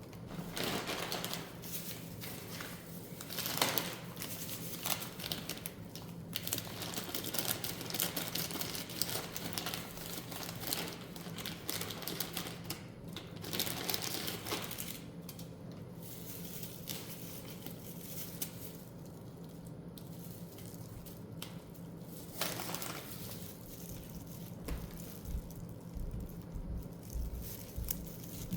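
Crinkling and rustling with irregular light clicks as things are handled, over a steady low hum.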